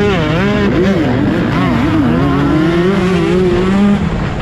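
Motocross bike engine revving, its pitch rising and falling again and again as the throttle is worked.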